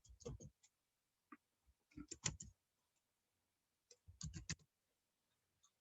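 Three short runs of quick clicks at a computer, about two seconds apart, with near silence between them.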